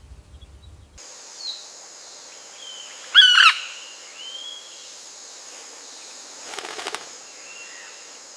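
Bird calls over a steady high hiss: a few short whistled notes, one louder call with several pitch lines about three seconds in, and a brief rustle near seven seconds. A low rumble in the first second cuts off abruptly.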